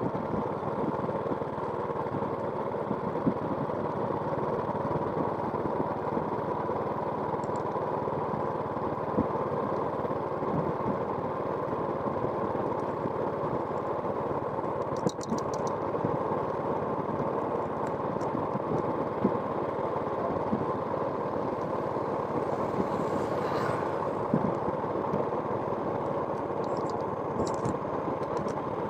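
A small engine running steadily, with a few faint ticks.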